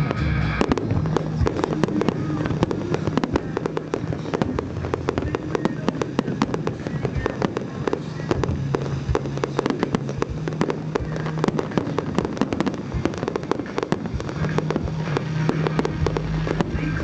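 Aerial fireworks display going off in a dense, continuous barrage of bangs and crackles, with music playing underneath.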